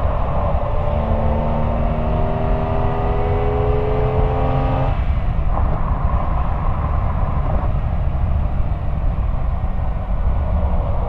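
Porsche 911 Carrera 996 flat-six exhaust heard from a microphone mounted outside by the tailpipe, rising gently in pitch under acceleration, then cutting off abruptly about five seconds in. Steady running follows, with heavy wind and road rumble on the microphone.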